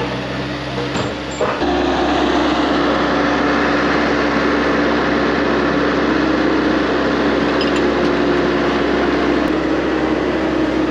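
Skid loader's engine running steady. About a second and a half in there is a knock, and the engine steps up to a higher, steady speed.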